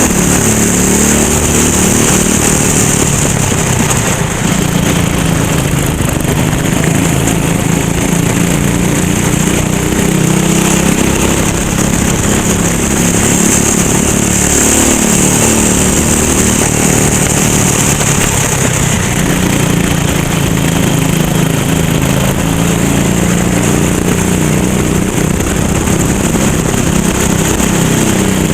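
Racing go-kart engine running hard, its pitch rising and falling over and over as the throttle opens and closes through the corners, with a steady high hiss over it.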